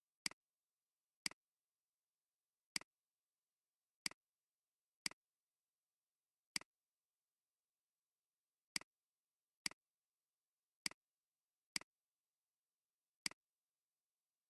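Computer mouse clicking: eleven single sharp clicks at uneven intervals of roughly one to two seconds, with dead silence between them.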